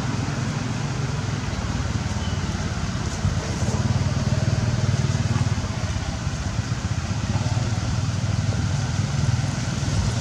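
A motor engine running steadily, growing louder for a couple of seconds around the middle.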